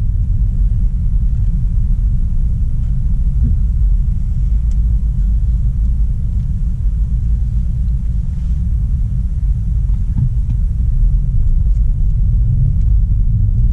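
Steady low rumble of a 2016 Audi A3 Sportback 1.4 TFSI being driven, road and engine noise with a few faint ticks.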